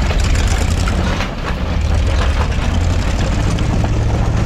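Tucker Sno-Cat's engine running steadily as it drives over rough ground, with scattered knocks and rattles as the tracked machine bounces. The engine eases off briefly about a second in, then picks back up.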